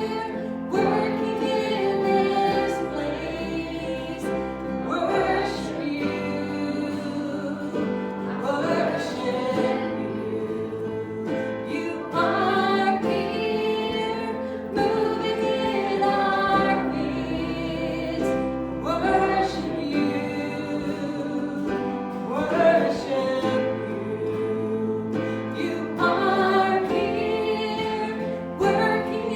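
Church congregation singing a slow worship song in held notes, with instruments playing steady bass notes beneath.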